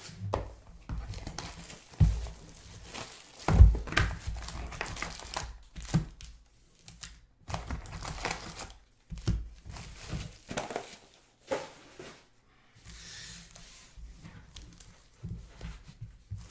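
Trading card packs being torn open and their wrappers crinkled, in irregular bursts, with two louder thumps about two and three and a half seconds in.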